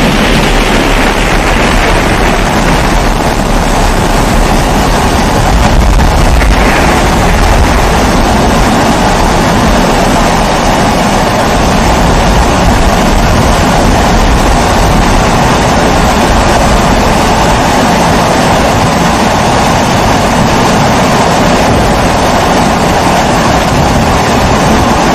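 Pressurised kerosene stove (babour, Primus-type) burning with a loud, steady rushing hum.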